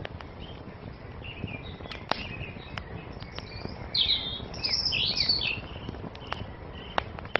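Wood fire crackling with scattered sharp pops over a low steady rush, while small songbirds chirp and twitter. A louder run of bird song comes about halfway through.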